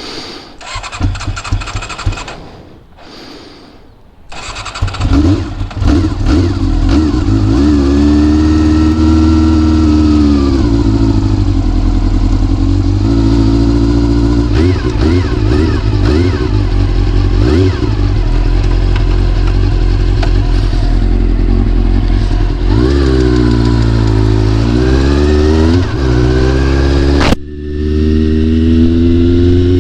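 Honda CBR400RR's inline-four engine catching and running about four seconds in after some uneven sputtering, then idling with several short blips of the throttle. A sharp click near the end, after which the engine runs with rising revs.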